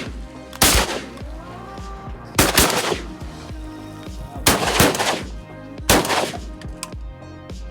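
A volley of shotgun blasts from several hunters firing at wood ducks, about six shots in quick clusters: one about a second in, a pair near the middle, then a pair and a single shot soon after. A steady music track runs underneath.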